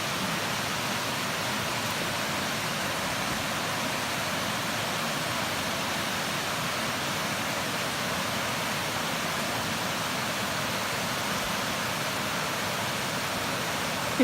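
Waterfall over a mill pond dam: a steady rush of falling water.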